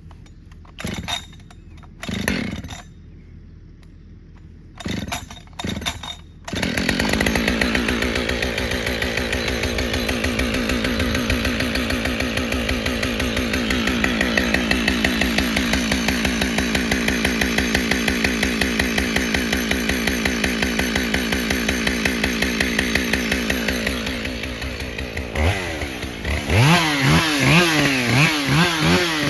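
Two-stroke chainsaw: a few short bursts, then from about six seconds in it runs steadily at high speed. Near the end it revs up and down repeatedly.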